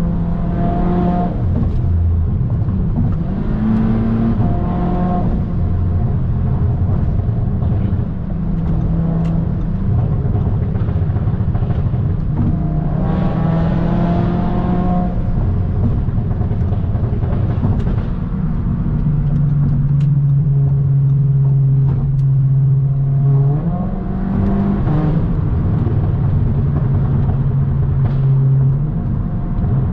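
2017 Audi S3's turbocharged 2.0-litre four-cylinder engine and exhaust under way, revving up in several rising pulls about 4 s, 13 s and 24 s in, with a steady drone at constant revs between them.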